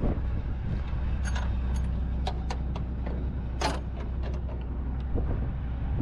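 Semi truck's diesel engine idling with a steady low rumble, with a scattering of light clicks and rattles over it.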